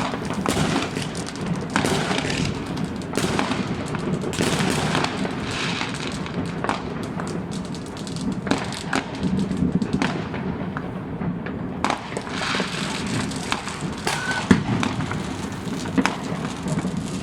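Many fireworks and firecrackers going off at once: a continuous crackle of bangs and pops over a steady low rumble. One sharper, louder bang comes about fourteen seconds in.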